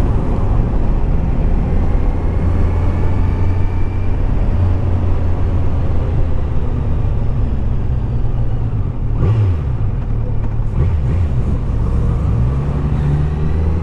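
Kawasaki Z900 SE inline-four motorcycle engine running under way, with rushing noise over it. The engine note drops briefly about nine seconds in, then climbs again near the end.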